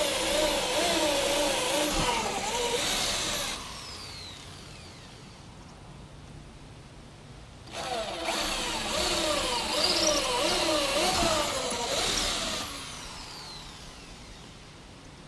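Black & Decker power drill running in two bursts, a few seconds apart, its motor pitch wavering as it works under load, plausibly driving wood screws. Each burst winds down with a falling whine when the trigger is released.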